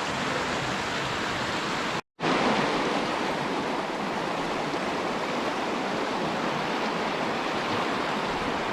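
Small river's water rushing in a steady hiss, broken by a brief total dropout about two seconds in.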